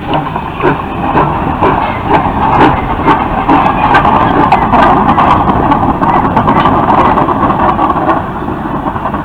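Steam train running by: regular clacks about twice a second over a steady rush of noise, getting louder through the middle and easing near the end.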